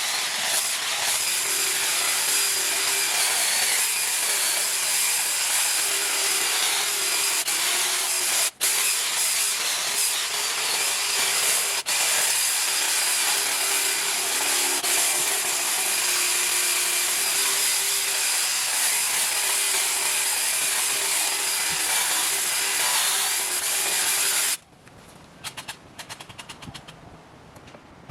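A motorised garden power tool running steadily at constant speed, then cutting off abruptly about 25 seconds in, with a few faint clicks after it.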